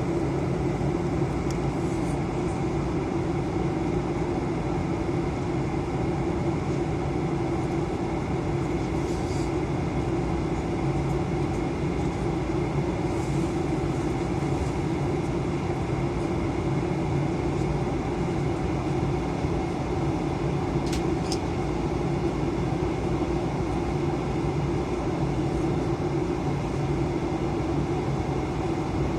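Steady cabin drone of an Airbus A320 in flight: engine and airflow noise with a constant low hum, unchanging throughout, with a few faint ticks.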